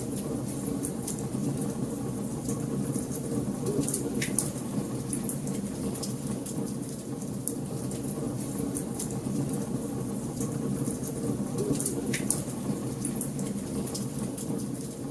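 Wood fire burning in a fireplace: a steady low rumble of flames with frequent small crackles and pops, two sharper pops about four seconds and twelve seconds in.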